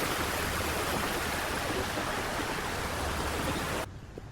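Steady rushing water, an even hiss that cuts off suddenly near the end.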